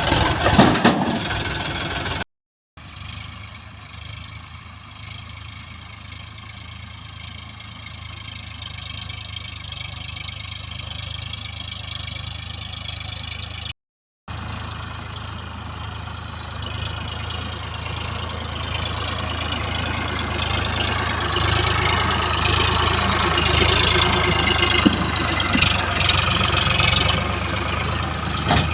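Diesel engine of earth-moving machinery running steadily, working harder and louder in the second half. Cut off twice by brief silences where clips are joined.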